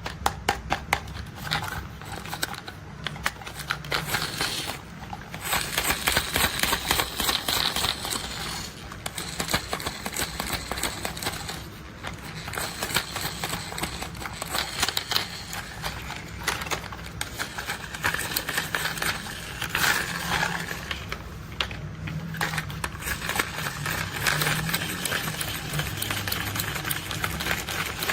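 Rapid, dense clicking and rattling of plastic toy construction vehicles being handled, going on without a break.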